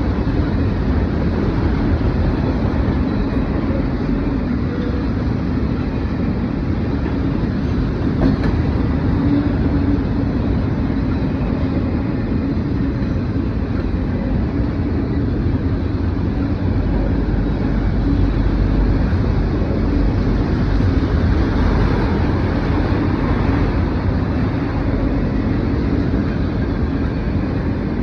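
Norfolk Southern mixed freight train rolling past on the rails, a loud, steady rumble of wheels and cars that swells slightly in the lows past the middle.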